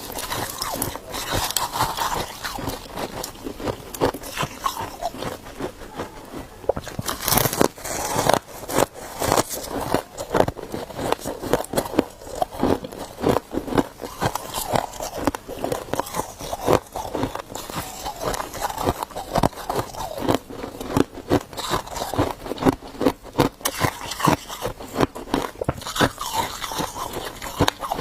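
A person biting and chewing ice, a dense run of sharp, irregular crunches and cracks.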